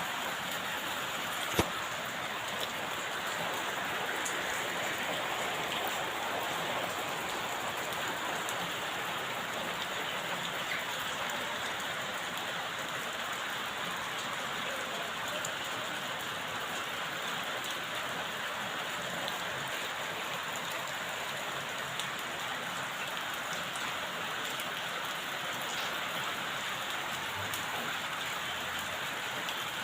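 Steady rain falling, an even hiss that holds level throughout. A single sharp click stands out about a second and a half in.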